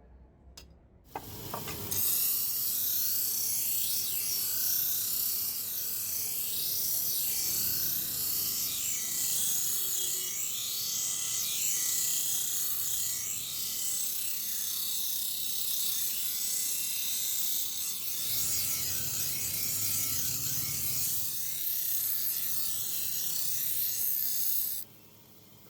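Power grinder working the iron blade, a steady grind that starts abruptly about a second in and cuts off shortly before the end.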